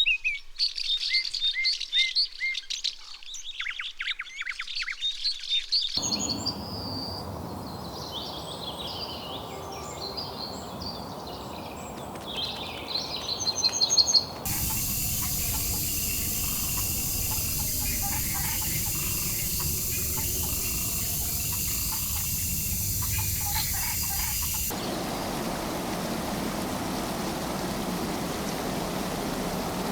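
Tropical forest birds calling and chirping, first over near-quiet, then over a rising noisy bed. After about fifteen seconds a steady high hiss takes over with a few calls through it, and in the last five seconds an even rushing noise replaces it.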